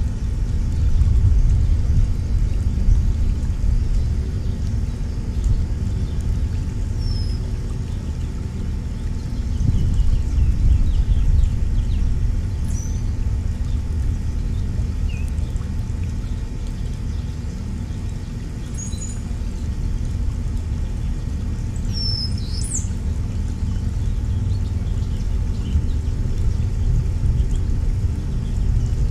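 A steady low rumble, with a few short, high chirps from small birds scattered through it, clustered near the three-quarter mark.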